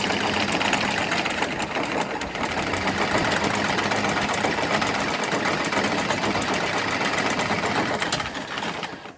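New stainless anchor chain running through a windlass: a steady, fast mechanical rattle that fades out near the end.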